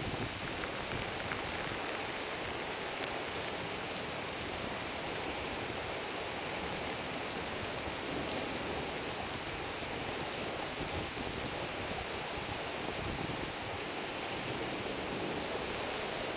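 Heavy thunderstorm rain falling steadily, an even dense hiss with a few sharp ticks of drops striking close by.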